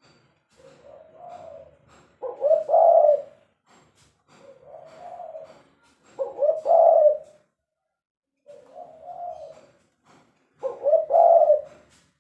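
Spotted dove cooing in three phrases, one about every four seconds. Each phrase is a softer low coo followed by a louder two-note coo.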